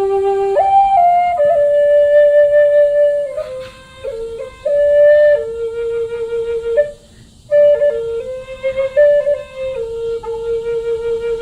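Flute music: a slow melody of long held notes stepping from one pitch to the next, with a brief pause about seven seconds in.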